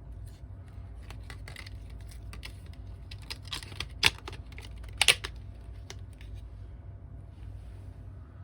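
Light clicks and taps of small objects being handled, with two sharper clicks about a second apart near the middle, over a steady low hum.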